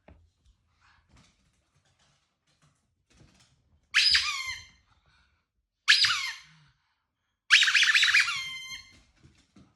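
Three squeaks from a squeaky toy, about two seconds apart, each sliding down in pitch; the last one is longer.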